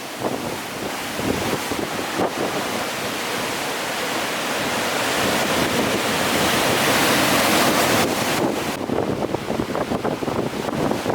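Strong wind buffeting the microphone over the wash of rough sea waves. A gust builds to its loudest about halfway through, then drops off suddenly into choppier gusts.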